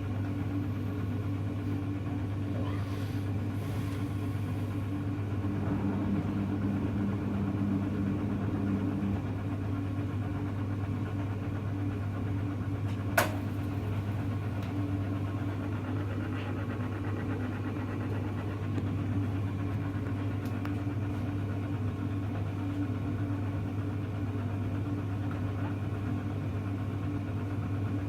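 Hoover Electra front-loading washing machine running with a steady motor hum, and one sharp click about thirteen seconds in.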